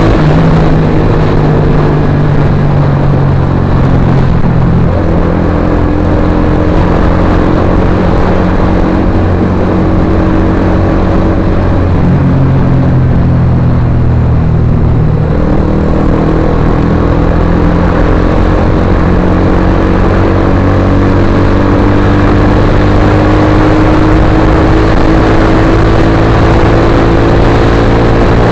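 Suzuki GSX-R150's 150 cc single-cylinder engine running loud through an aftermarket Akrapovic-style slip-on exhaust. Its pitch sinks slowly toward the middle, then climbs gradually toward the end.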